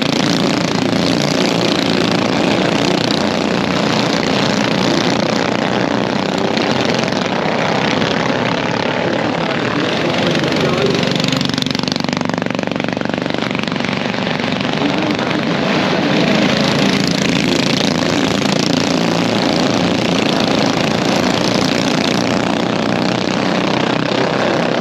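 Radio-controlled car driving, a steady mechanical whir with no breaks.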